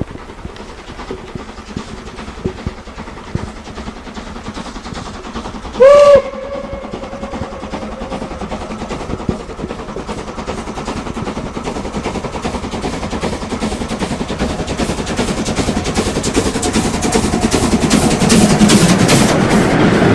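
Steam locomotive 023 058-1 gives one short whistle blast about six seconds in, then its exhaust beats and running gear grow steadily louder as it approaches working its train.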